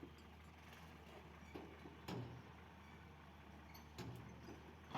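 Faint, steady low hum of a heavy diesel engine running at a distance, with a couple of short knocks about two seconds in and near the end.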